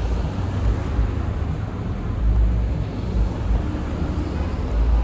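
Steady low rumble of a city bus engine and street traffic.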